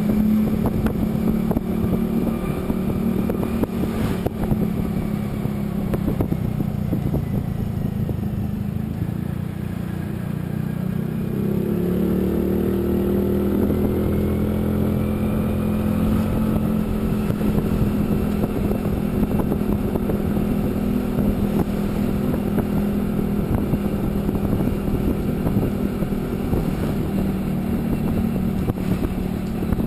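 Motorcycle engine running at a steady road speed under a constant rush of wind and road noise. About twelve seconds in, a second engine note rises and swells for a few seconds, then settles.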